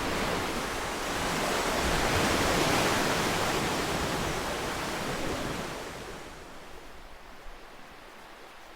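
Ocean waves: one wave washes in and builds to a peak a couple of seconds in, then recedes and fades to a softer hiss in the last few seconds.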